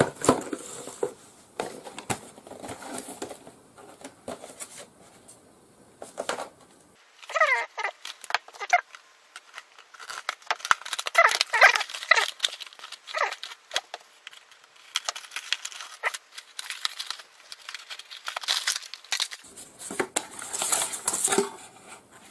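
Packaging being handled and torn open: crinkling and rustling with many small clicks, busiest in the middle of the stretch.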